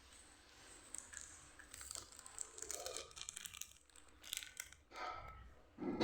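Plastic snack packaging being crinkled and torn open: a run of faint, quick crackles and tearing sounds, followed by a louder noisy burst near the end.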